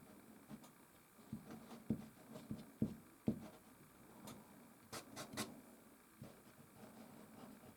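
Soft pastel worked on stretched canvas: a series of short dull taps in the first half, then a few quick scratchy strokes about five seconds in.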